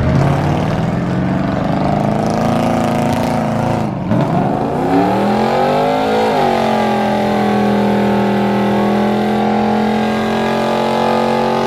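Car engine revving hard: the revs drop briefly about four seconds in, climb again, then are held high and steady for the last five seconds.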